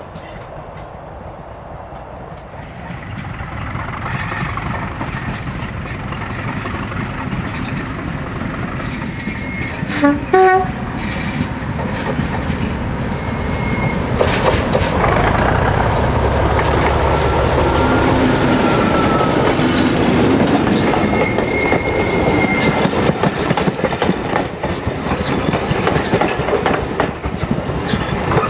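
Class 37 diesel locomotive 37025 approaching and running past with its train, its engine and wheels growing louder. It gives two short horn blasts about ten seconds in.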